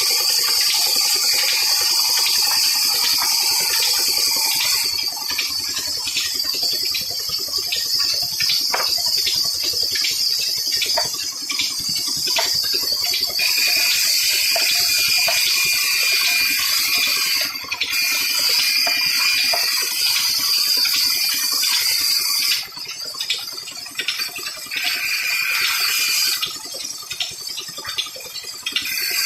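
Steady rushing of gushing water, with many small irregular clicks throughout.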